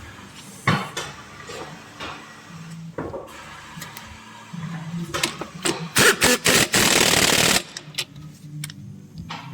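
Workshop tool sounds: scattered sharp clicks and knocks, then a loud noisy burst lasting about a second and a half, about six seconds in.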